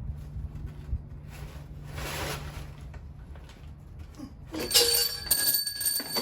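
Metal engine parts and tools clinking and clanking on a small-block Ford V8 being taken apart, with a run of loud ringing metal clanks about five seconds in.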